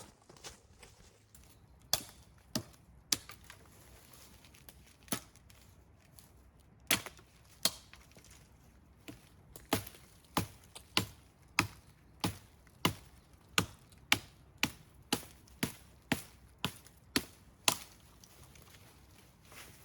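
Wood being chopped by hand with a bladed tool, sharp single strikes. A few are scattered at first, then they settle into a steady rhythm of about two strikes a second for the second half.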